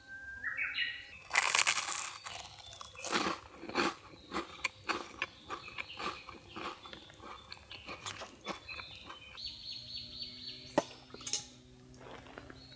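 A run of irregular crunching and crackling sounds, with a few bird chirps just before it begins; a steady buzz sets in near the end.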